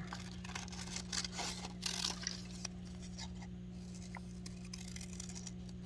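Faint scraping and rustling of cut paper pieces and scissors being handled, mostly in the first half, over a steady low hum.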